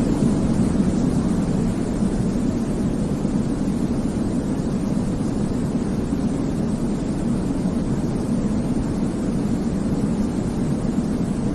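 Continuous baby-sleep white noise: a steady, even, deep rumble with little hiss on top.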